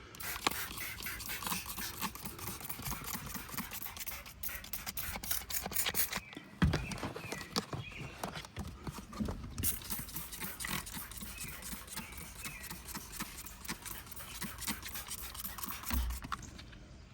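Irregular clicking, tapping and rubbing from hands-on cleaning work, with a couple of louder knocks.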